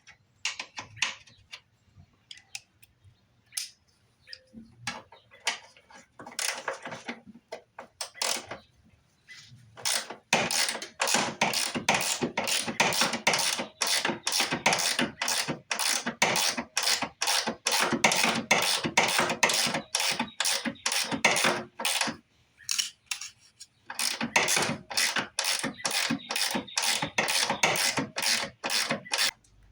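Hand ratchet wrench clicking as a fastener is worked loose during disassembly on a 1995 Mustang GT. A few scattered clicks come first, then long runs of quick, regular clicking about a third of the way in, with a short break shortly before the end.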